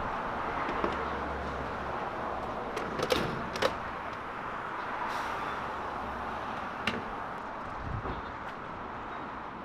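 Steady outdoor vehicle noise with a low hum over the first half, broken by a few sharp clicks and knocks about three seconds in and again near seven and eight seconds.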